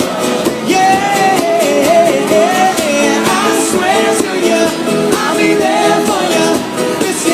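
Live pop-rock band playing, with drums keeping a steady beat and a wordless sung vocal line wavering over it.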